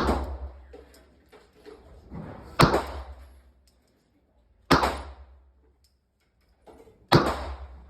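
Gunshots at a shooting range: four sharp reports about two seconds apart, each followed by a short echoing tail.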